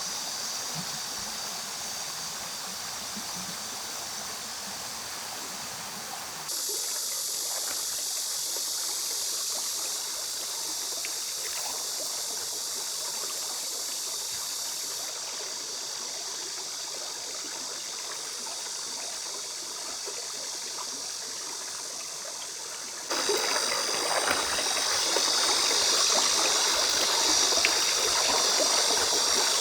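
Mountain stream water flowing steadily over rocks, a continuous rushing hiss. It changes abruptly twice, about six and a half and about twenty-three seconds in, and is loudest in the last stretch.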